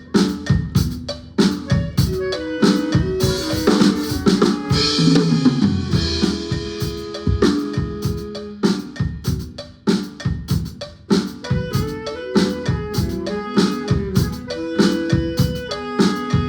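Guatemalan marimba band playing with a drum kit: short struck marimba notes over a steady beat of kick, snare and rimshots, with a cymbal wash about three to six seconds in.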